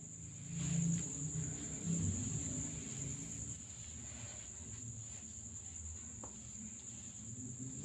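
A steady, high-pitched insect trill running unbroken, with soft low thumps about a second and two seconds in.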